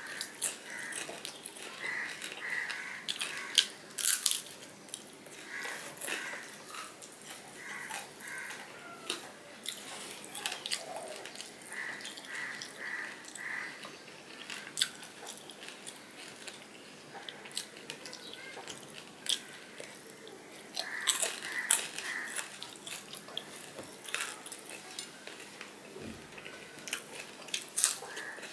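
Close-miked chewing and lip smacking of fried hilsa fish and rice eaten by hand, with sharp crunchy clicks scattered throughout.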